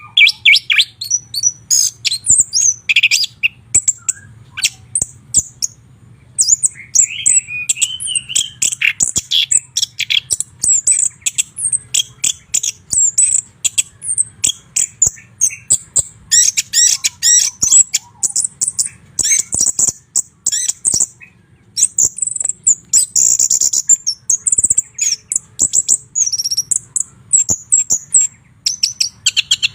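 White-rumped shama singing: a fast, nearly unbroken string of sharp chirps and clear whistled notes, mostly high-pitched, with a couple of short pauses.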